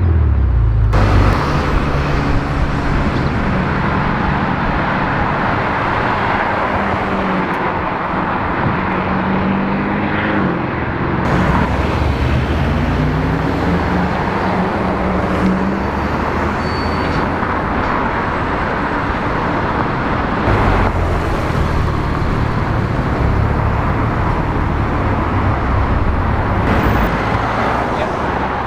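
Sports car engines accelerating past on a city street, their revs rising and falling, over a steady bed of traffic noise. The sound changes abruptly several times.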